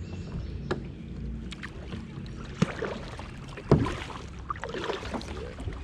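A sit-on-top fishing kayak being paddled on a river: water splashing and sloshing around the paddle and hull, with a few sharp knocks, the loudest about three and a half seconds in.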